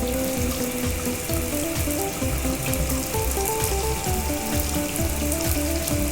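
Steady hissing of a water spray, like a car-wash jet, over a background tune with a stepping melody and a regular bass beat.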